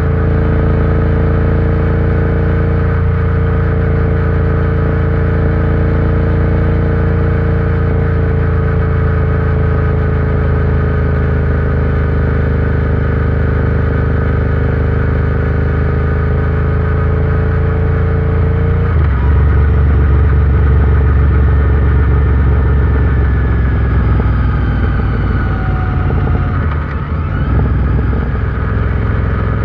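Royal Enfield Interceptor 650's parallel-twin engine running under way at a steady cruise. About two-thirds through the note drops abruptly to a lower pitch, then slides and dips briefly near the end.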